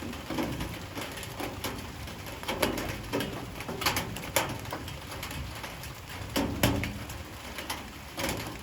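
Light rain: irregular drops tapping sharply, one after another, on hard surfaces. A dove coos in the background.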